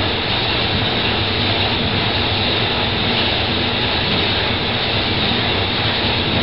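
Steady, even rushing noise with no change in level or pitch.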